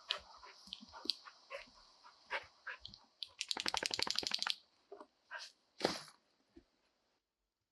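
A dog moving about close by, with scattered clicks and taps, and a rapid flapping rattle of about a second in the middle. A steady background hiss cuts off suddenly near the end.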